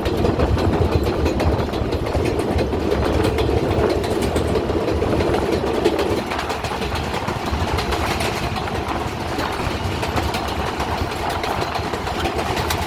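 R142A subway train running along the track: a steady rumble of wheels on rail with rapid clicks over the rail joints. The sound eases slightly about six seconds in.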